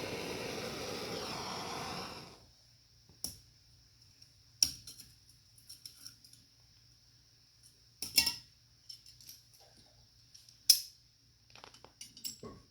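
A steady hiss cuts off about two seconds in. Then come scattered light metallic clinks and taps, a few of them sharper, as metal tools and pieces are handled.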